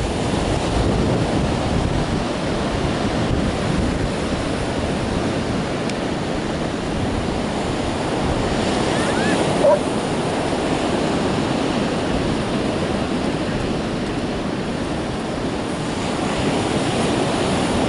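Ocean surf washing on the beach, a steady roar of water with wind buffeting the microphone.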